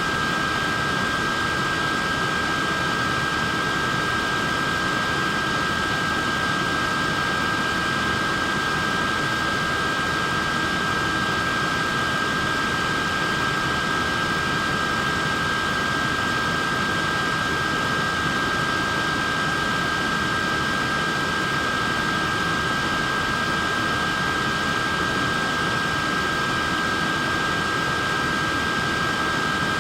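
Wearable neck fan running steadily: a constant airy whoosh with a steady high motor whine of two close tones.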